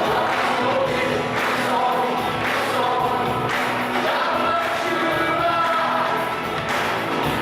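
Gospel music: a choir singing over backing music with a steady beat.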